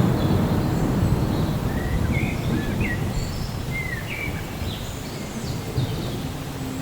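Low rolling thunder rumble, loudest at the start and slowly fading. From about two seconds in, birds chirp in a string of short, quick calls over it.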